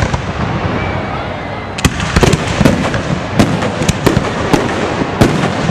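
Fireworks shells bursting overhead: after a quieter first two seconds, a rapid string of sharp bangs, about ten in three and a half seconds, over a steady background rumble.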